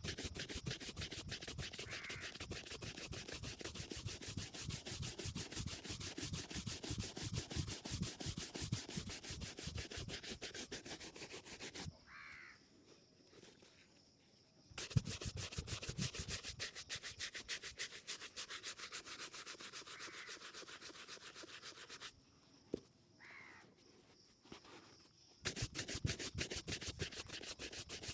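A shoe being buffed during a shoe shine: rapid, even back-and-forth rubbing strokes. The strokes stop twice for a few seconds and then resume.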